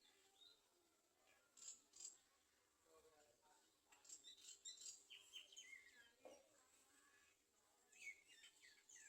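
Garden sunbirds at the nest: faint, high chirps and short falling calls in scattered bursts, clustered about two seconds in, from about four to six seconds, and again near the end.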